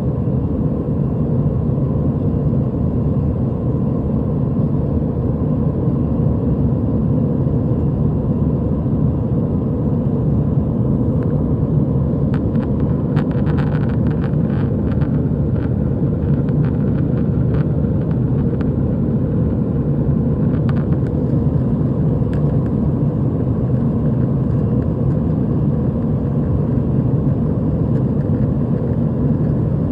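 Steady cabin noise of an Airbus A320 airliner in flight, a deep, even rumble of engines and airflow heard inside the cabin. A few faint light clicks or rattles come in about halfway through.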